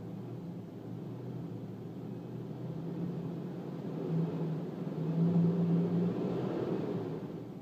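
Audi S6 C5's 4.2-litre V8 running with a misfire. It grows louder a few seconds in, then drops off suddenly at the end.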